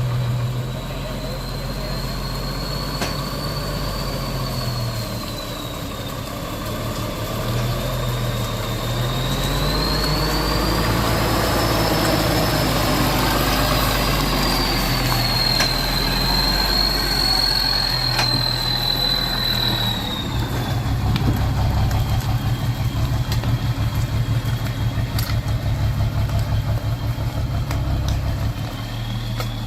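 Heavy truck engine running steadily, with a high thin whine that rises and falls in pitch over the first two-thirds. For the last third the engine note turns into a rapid, even pulsing.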